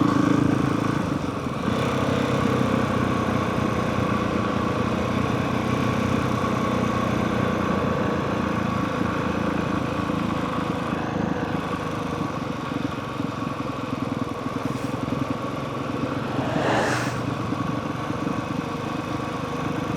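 Honda CRF450R dirt bike's single-cylinder four-stroke engine running steadily at low revs, with a brief swell of noise near the end.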